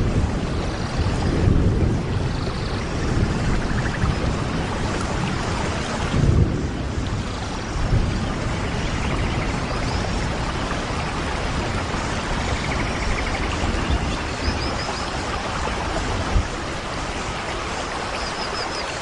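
Heavy rain falling steadily in a forest, with low thunder rumbles swelling a few times and a few faint high chirps.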